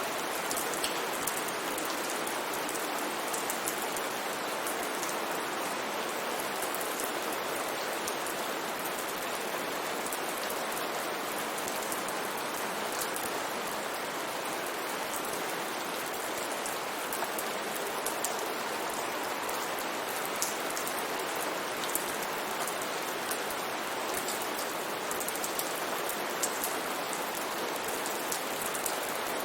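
Steady rain falling, an even hiss with many small drops pattering sharply on a surface.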